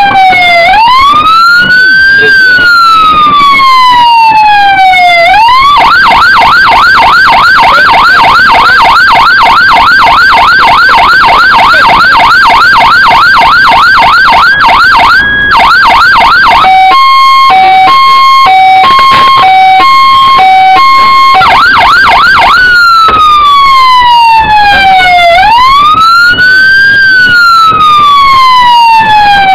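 Electronic siren of a Scania road-rescue fire engine on an emergency run, very loud. It starts as a slow rising and falling wail, switches about five seconds in to a fast yelp, and around sixteen seconds to a high-low two-tone. After about twenty-two seconds it goes back to the wail.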